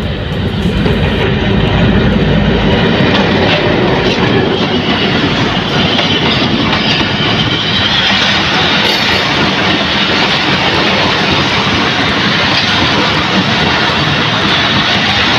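Diesel-hauled passenger train running in alongside the platform, close and loud: a steady mix of locomotive engine and wheels on the rails, with a heavy low rumble in the first few seconds.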